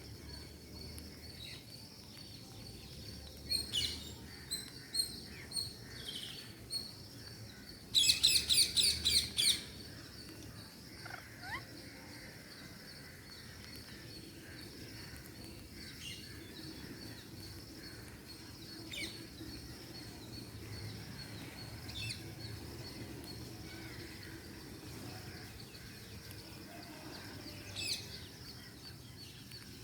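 Ringneck parakeets calling: scattered short chirps, then a quick run of about seven loud, harsh calls in a burst around eight seconds in, followed by occasional single calls. A faint steady high-pitched whine runs underneath.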